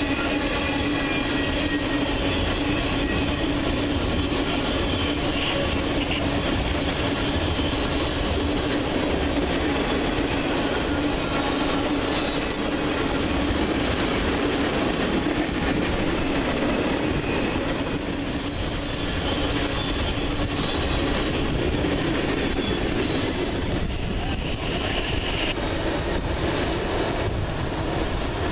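Freight train rolling past: a steady din of steel wheels on rail, with high-pitched wheel squeal running through it.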